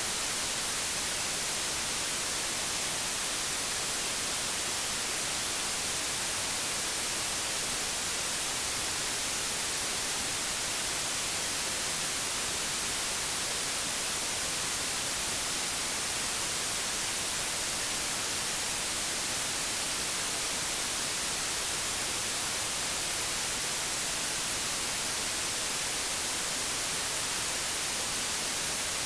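Old television static: a steady, even hiss, brightest in the treble, with no change.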